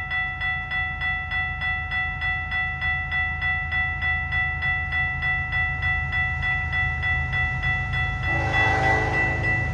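Railway crossing bell ringing steadily, about three strokes a second, over the low rumble of a train. About eight seconds in, the locomotive sounds a short blast on its multi-chime air horn.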